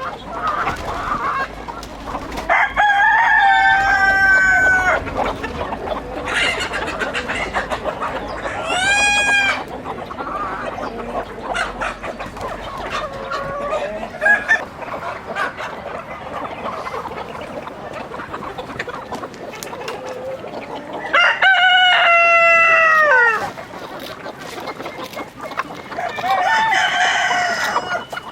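Roosters crowing several times, long calls that drop in pitch at the end, over a flock of chickens clucking continuously.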